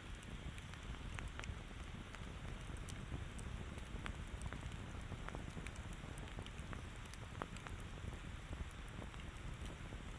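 Campfire burning steadily, with frequent small crackles and pops from the wood over a low rushing bed.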